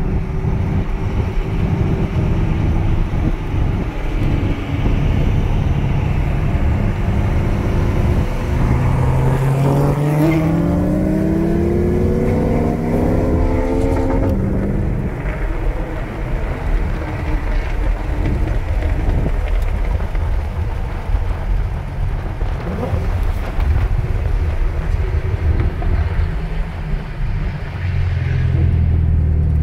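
Modified VE Commodore SS wagon's V8 heard from inside the cabin, running under load with a heavy rumble throughout. About a third of the way in it revs up in a long rising pitch for several seconds, then drops back sharply near the halfway point and carries on.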